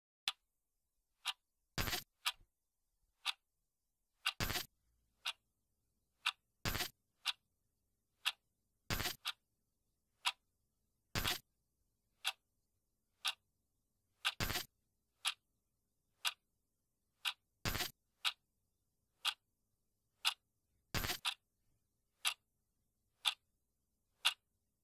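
A clock ticking steadily, about once a second, with a louder, slightly longer click every two to three seconds between the ticks.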